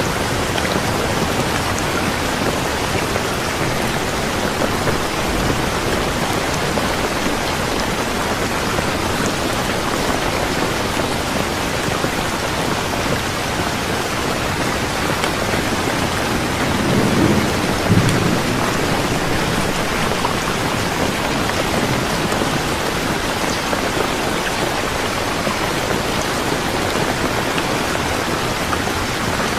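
Steady, even rain falling, with a short low rumble swelling about two-thirds of the way through.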